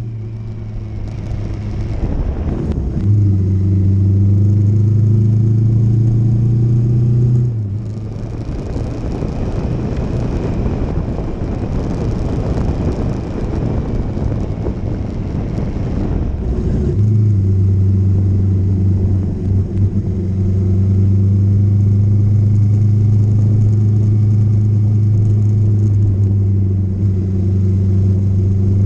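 Motorcycle engine running at a steady cruising speed. About a third of the way in, the engine note fades under a rushing noise for roughly ten seconds, then comes back steady.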